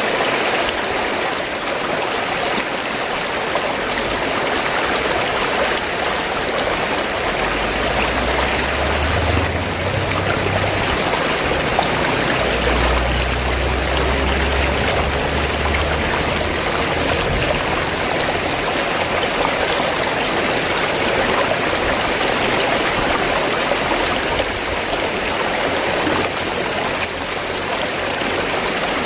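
Fast-flowing stream gurgling and rushing steadily, with a low rumble underneath for several seconds in the middle.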